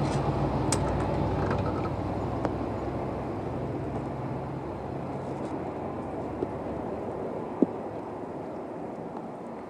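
Rumble of a Tobu 6050-series train fading steadily as it moves away from the crossing, its low hum dying out about halfway through, with a couple of brief clicks.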